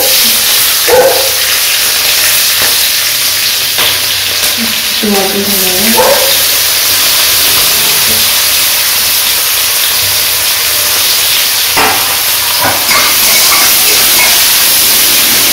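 Green chillies and sliced onions sizzling in hot oil in an aluminium kadai, a steady frying hiss that starts loud as they hit the oil. A few sharp clicks come from a spatula stirring against the pan.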